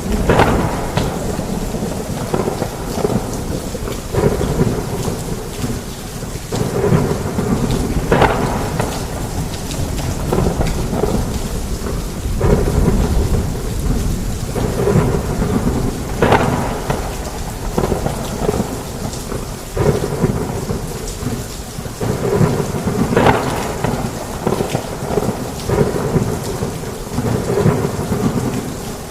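Heavy rain falling steadily under continuous rolling thunder, with a sharper, brighter peak of thunder about every seven or eight seconds.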